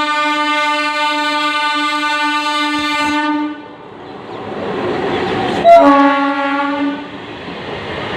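MEMU electric train horn sounding a long steady blast that cuts off about three and a half seconds in. The train's running rumble then builds, and a second horn blast of about a second comes in sharply around six seconds in, before the rumble carries on.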